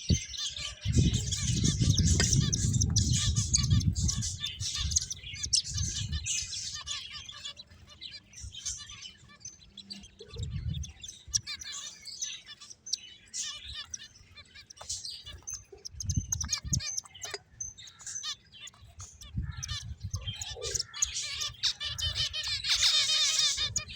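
Pet finches chirping and twittering in many short, high calls, with a thicker burst of rapid chatter near the end. A low rumble underlies the first few seconds and returns briefly a few times.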